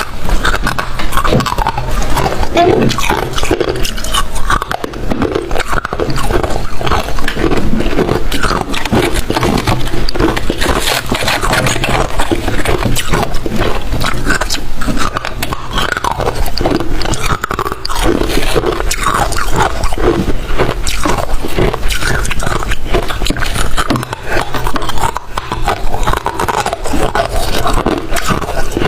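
Close-miked biting and chewing of crunchy freezer frost ice: a dense, unbroken run of crunches and cracks.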